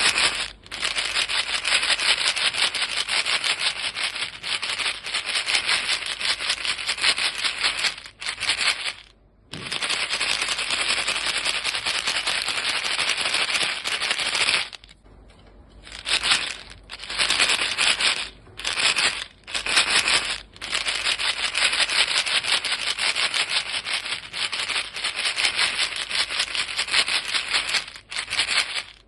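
Box of chewing gum pellets being shaken, a dense continuous rattle of the pellets against the box. It stops briefly a third of the way in, pauses for about a second near the middle, and then runs in a few shorter bursts before settling back into steady shaking.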